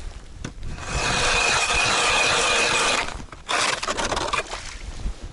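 Hand ice auger rasping as it cuts through river ice: a steady grinding of about two seconds, a short break, then about another second of cutting.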